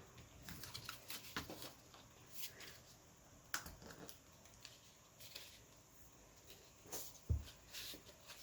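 Faint handling of paper on a work surface: scattered light rustles and taps, with one duller knock about seven seconds in.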